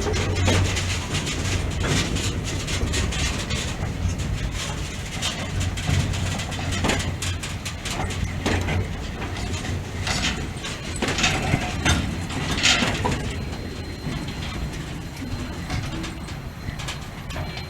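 Freight train of container wagons rolling past: a low rumble with repeated wheel clacks over the rail joints, growing quieter over the last few seconds.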